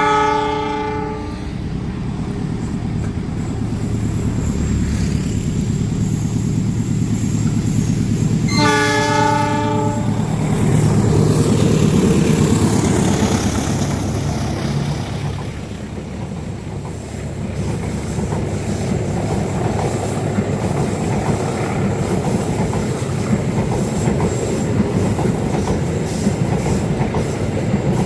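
Passing train sounding its horn twice, a brief blast at the start and a longer one about nine seconds in, over the steady rumble of the locomotive. The wheels then clatter over the rail joints as the carriages go by.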